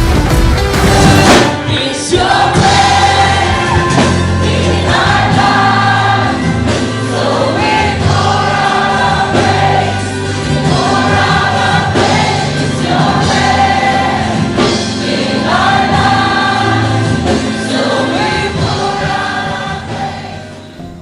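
Gospel music with a choir singing in repeated phrases over bass and drums, fading out near the end.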